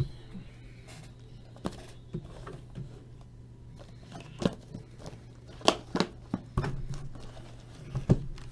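Scattered short clicks and light knocks, about seven over several seconds, some in quick pairs, over a low steady hum.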